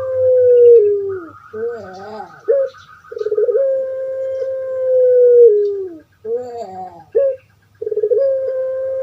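Puter pelung dove (Streptopelia risoria) cooing: a long, held note that steps down at its end, followed by a short wavering gurgle. The call repeats about every four to five seconds.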